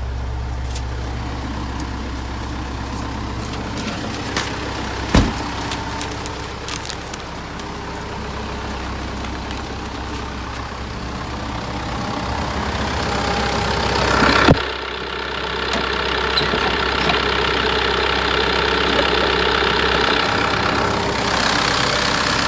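Mitsubishi Fuso Canter's 4M50 4.9-litre four-cylinder turbo-diesel idling steadily and working well. A sharp knock comes about five seconds in and a louder one about fourteen and a half seconds in, after which the engine sounds louder and brighter.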